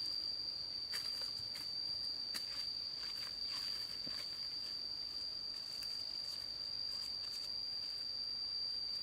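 An insect trilling on one steady high pitch without a break, with scattered light clicks and snaps over it.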